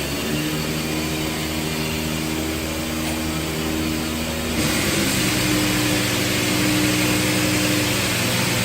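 Mixing-tank washing machine running: a steady machine hum with several pitched tones. About halfway through, the tones shift and a louder hiss comes in over the hum.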